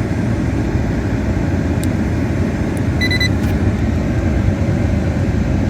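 GM Chevrolet truck idling with its air conditioning running: a steady low rumble. A short high electronic beep comes about three seconds in.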